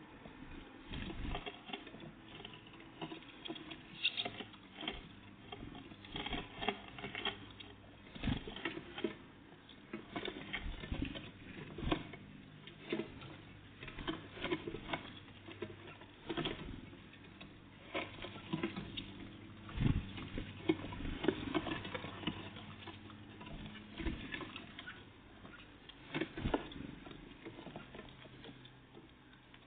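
Small birds (great tits and blue tits) feeding close to the microphone: irregular tapping, pecking and pattering clicks, some in quick clusters, with no song.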